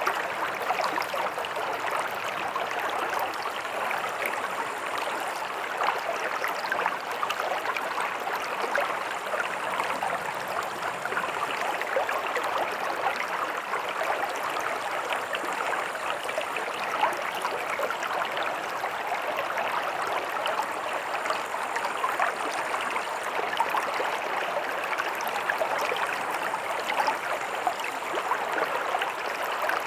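Stream water running and splashing over rocks in a steady, even rush.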